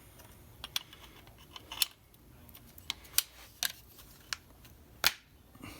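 A steel clip being worked onto a Model T Ford transmission band: a string of sharp metallic clicks and taps, about seven in all, with a loud click near the end as it snaps on.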